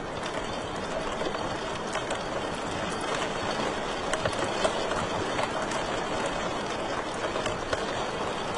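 Fire crackling in a fireplace: a steady rushing hiss of flames dotted with many small sharp pops and snaps.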